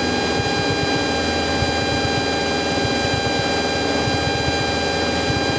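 Cessna 172's engine and propeller droning steadily in flight, heard from inside the cabin, with a constant even pitch.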